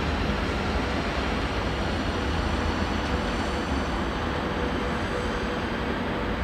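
Passenger train coaches rolling slowly over curved track and switches: a steady rumble of wheels on rails, with faint thin high tones above it.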